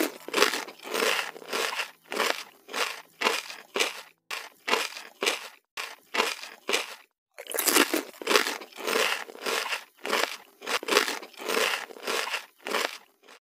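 Loud crunching of crispy breadcrumb-coated fried chicken being eaten, a steady run of crunches about two to three a second, with short breaks about four, six and seven seconds in.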